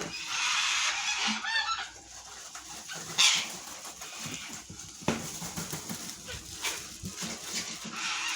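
Cockatoos screeching: a long harsh screech in the first two seconds, a shorter loud one about three seconds in, then quieter squawks and a sharp click about five seconds in.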